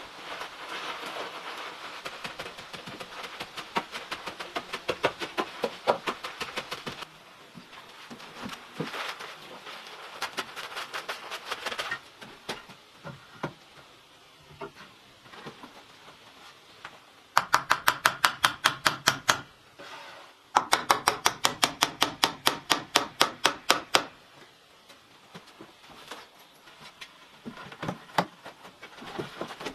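Tools working wood: scattered knocks and scraping, then two runs of loud, very even strokes at about seven a second.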